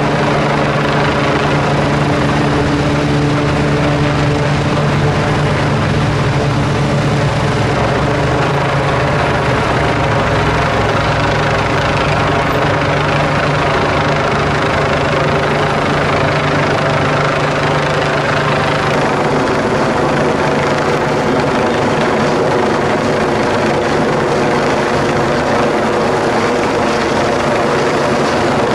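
Rescue helicopter hovering overhead, its rotor and turbine running loud and steady, with a low hum that fades about two-thirds of the way through.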